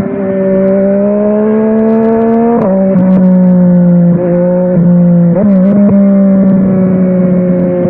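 Yamaha Tracer 900 GT's inline three-cylinder engine on a WR Authentic aftermarket exhaust, pulling under way with its pitch slowly rising. About two and a half seconds in the pitch drops sharply at a gear change. After brief throttle dips and a blip it settles into a steady cruise.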